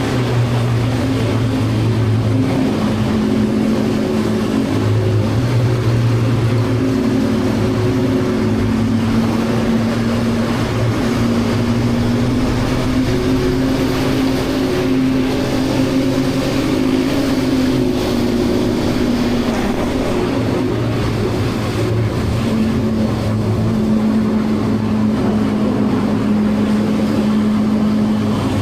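CFMoto 675NK's inline-three engine with its stock exhaust, running steadily under way. The engine note steps up and down in pitch several times as the throttle and speed change.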